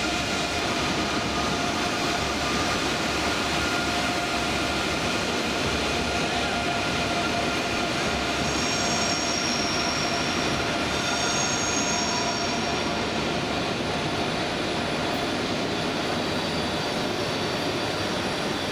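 Deutsche Bahn ICE high-speed train creeping along the platform: a steady electric whine of several held tones over a rumbling hum, with two short high squeals about halfway through.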